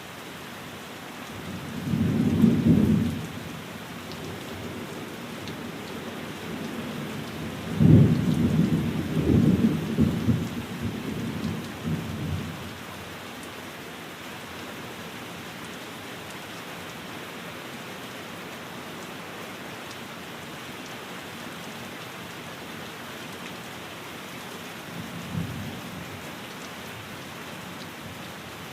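Steady rain falling on a window, with deep rolls of thunder: a rumble about two seconds in, a longer rolling peal from about eight to twelve seconds that is the loudest part, and a brief faint rumble near the end.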